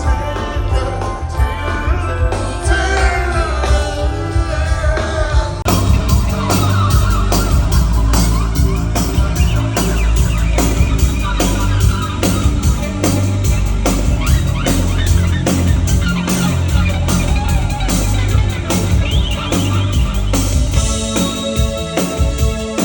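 Live 1980s new wave/rock band playing with singing. A steady drum beat comes in about six seconds in, and held keyboard chords sound near the end.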